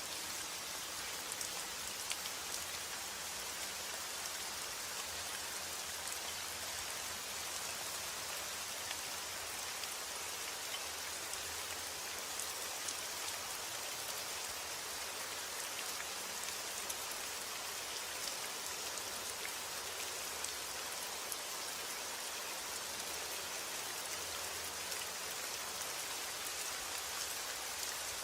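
Steady rain falling on a surface: a dense, even hiss with scattered individual drop ticks.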